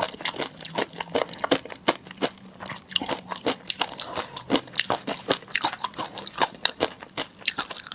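Close-miked eating: a person chewing and biting food, a dense run of sharp, crunchy clicks several per second.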